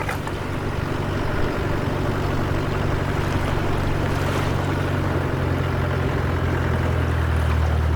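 Land Rover Discovery 1's engine running at a steady low speed. It comes in suddenly at the start and holds an even, low drone.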